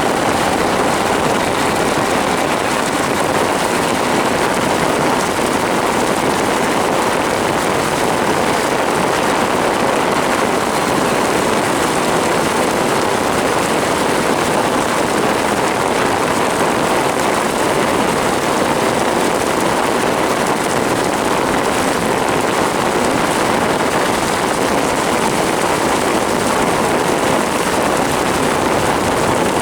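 Steady, loud rush of torrential rain and water against a car driving through a cloudburst, with no let-up.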